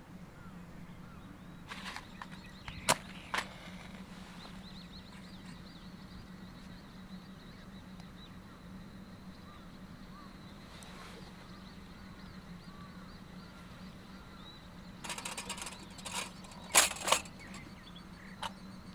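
A few sharp clicks and knocks, two close together about three seconds in and a cluster near the end, over a steady low hum.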